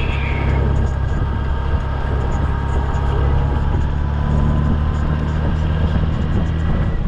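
Honda Gold Wing touring motorcycle's engine running steadily at a low cruise, a deep, even hum heard from the rider's seat over road and wind noise.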